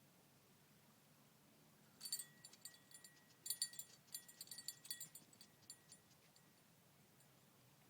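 Faint, irregular rapid clicking and ticking starting about two seconds in and lasting about four seconds, with a faint thin tone under it, against near silence.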